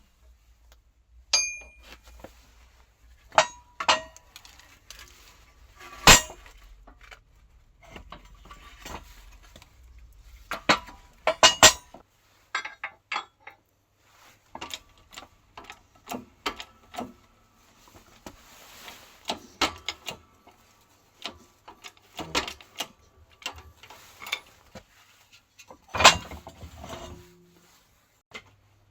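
Irregular metallic clinks, clanks and sharp knocks of hand tools and steel parts being handled during car suspension work, a few hits ringing briefly.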